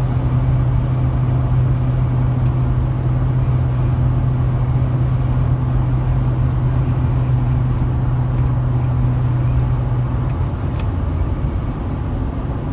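A 2008 Chevrolet 2500 HD's 6.0-litre V8 and road noise heard while driving, with a steady low drone that drops away about ten seconds in.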